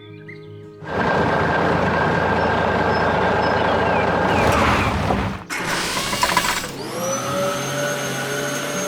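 A loud, steady motor sound that starts about a second in and cuts off suddenly about five seconds later. Another motor then starts, its whine rising and then holding steady.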